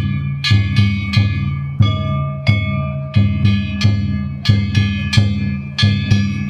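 Danjiri float festival music (hayashi): a taiko drum beaten in a fast steady rhythm while metal hand gongs (kane) are struck two to three times a second, each stroke ringing out and fading.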